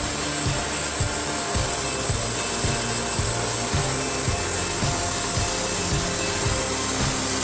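A saw cutting steadily through wood, a continuous rasping hiss, under background music with a steady beat.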